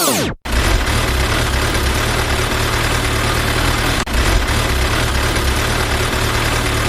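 Heavy engine idling: a steady low rumble with a hiss over it. It starts after a brief gap and drops out for a moment about four seconds in.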